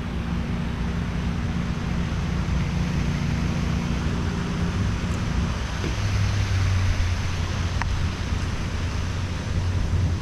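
A vehicle running while being driven, its steady low engine hum mixed with wind and road noise; the hum drops to a lower pitch about halfway through.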